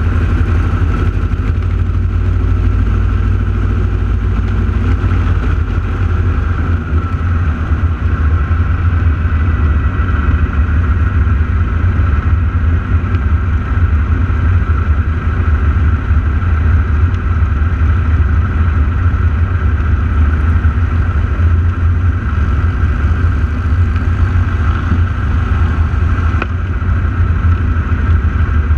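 Radial engines of the AeroShell team's T-6 Texan aircraft running in a loud, steady, low-pitched drone with a steady higher whine over it, during the aerobatic routine.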